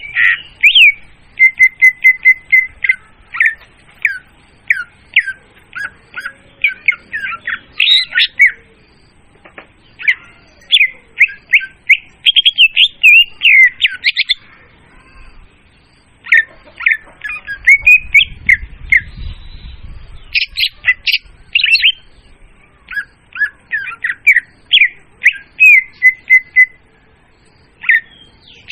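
Leafbird (murai daun) song played loud as a bird lure: rapid runs of sharp chirps and short whistled notes in phrases several seconds long, broken by brief pauses.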